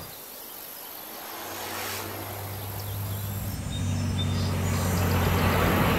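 Brutus's 47-litre BMW V12 aircraft engine running at a steady low note as the car approaches, growing louder.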